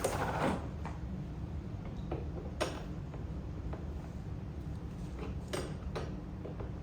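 Hand tools working on bolts of a metal garden cart during assembly: a short rustle of handling at the start, then a few scattered sharp clicks and light metallic knocks from a wrench on a bolt that keeps spinning, over a steady low hum.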